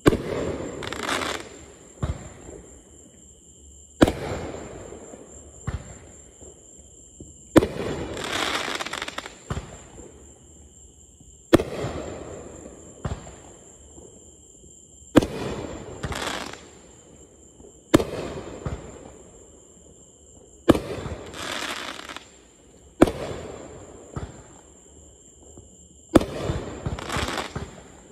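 Fireworks going off: about a dozen sharp bangs, one every two to four seconds, each trailing off in a second or two of hiss.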